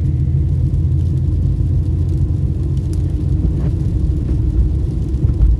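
Steady low rumble of a car driving: road and engine noise heard from inside the cabin.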